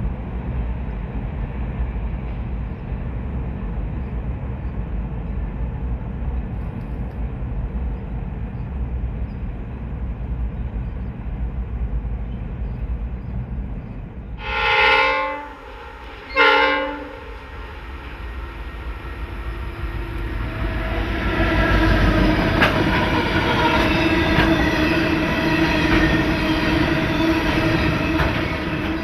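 Diesel freight locomotive sounding its horn twice halfway through, a longer blast and then a short one, over a low steady rumble. Then the train draws close with the locomotive's engine running loud and wheels clicking on the rails.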